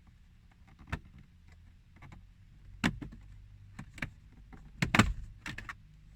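Plastic interior car trim being pried and worked loose by hand: a scatter of sharp clicks and knocks, the loudest cluster about five seconds in, as the panel's clips let go.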